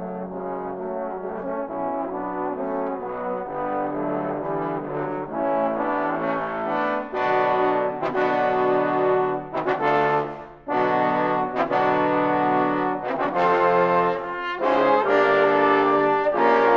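Trombone ensemble playing sustained chords that grow louder about halfway through. A brief break about two-thirds of the way in is followed by loud accented chords.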